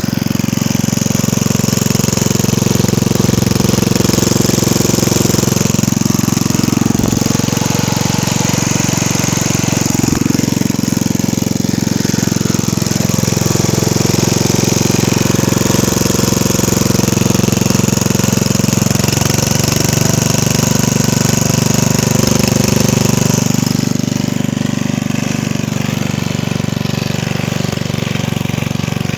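Vertical-shaft 1979 Briggs & Stratton 5 hp I/C side-valve engine on a Hayter Hayterette rotary mower, running steadily and loud, its note shifting a little about twenty seconds in.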